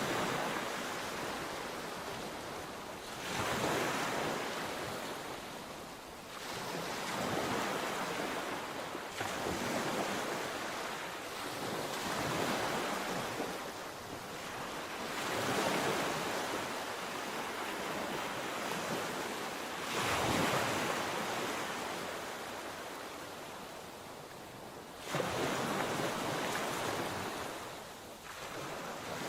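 Sea waves breaking on the shore, with a surge every three to five seconds and a steady wash between the surges.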